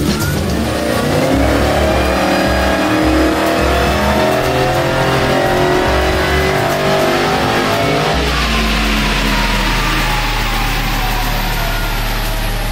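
Modified V8 of a Holden VE Commodore on a chassis dyno making a full-throttle pull, its note climbing steadily for about eight seconds. The throttle then closes suddenly and the pitch falls away as the engine and rollers wind down.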